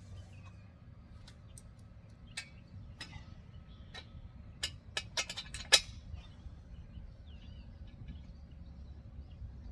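Sharp metal clicks and clinks from steel trampoline frame bolts and frame pieces being handled and fitted, a handful spread out, then a quick run of them about five to six seconds in, the last the loudest. Birds chirp faintly in the background.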